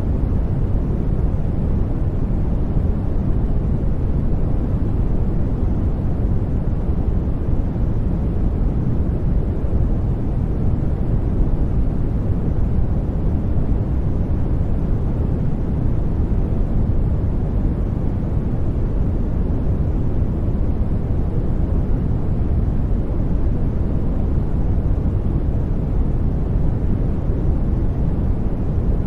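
Steady white-noise track for studying: an even, deep rushing hiss, much stronger in the bass than in the treble, with no changes.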